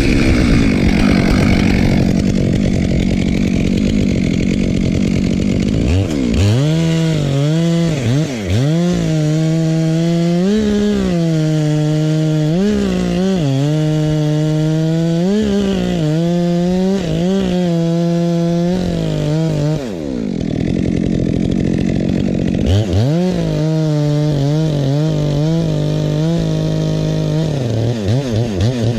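Two-stroke chainsaw cutting wood, most likely oak, running at high throttle, its engine pitch dipping under load and climbing again over and over. There is a brief letup about two-thirds of the way through before it cuts on.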